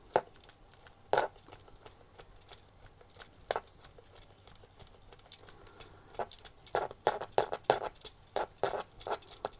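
Irregular small clicks and taps of a hard plastic 1970s Gabriel action figure being handled while its shoulder ball-socket joint is worked back and forth to spread a joint-stiffening liquid, with tissue rubbing. A few clicks at first, then a quicker run of them in the last few seconds.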